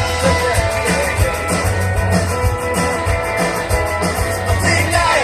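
Rock band playing an instrumental stretch between sung lines: electric guitar over a drum kit keeping a steady beat of about two thumps a second.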